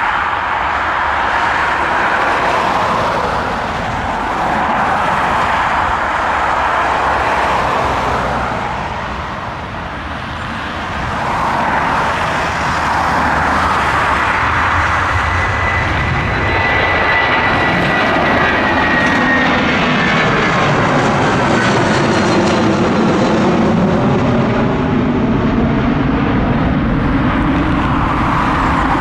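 Boeing 757 jet airliner passing with its engines loud throughout. A high whine slides down in pitch in the middle as the aircraft goes by, and lower sweeping tones follow near the end.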